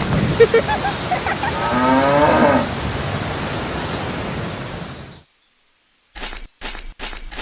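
A cow moos once, about two seconds in, over a steady rain-like hiss that fades away near five seconds. After a second of silence, a run of quick, scratchy strokes begins.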